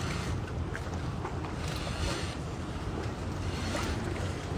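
Wind buffeting the microphone outdoors, a steady, uneven low rumble with a faint hiss above it.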